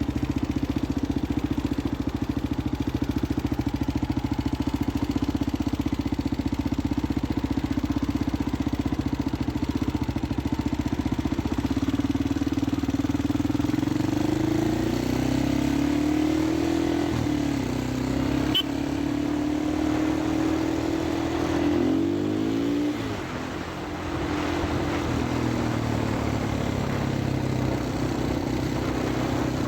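Motorcycle engine running steadily, its pitch rising and falling in the second half as it is revved, then settling back to a lower, steady note.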